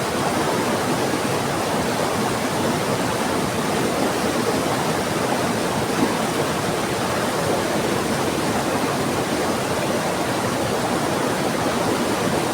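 Heavy rain falling together with a fast-flowing river: a steady, dense rush of water.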